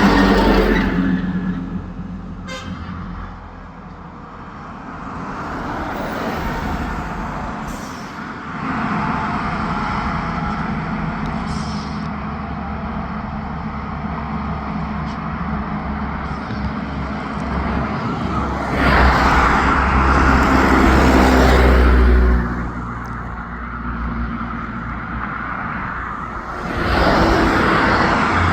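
Intercity bus engine running through traffic, with a horn sounding right at the start and the engine noise swelling louder for a few seconds about two-thirds of the way in.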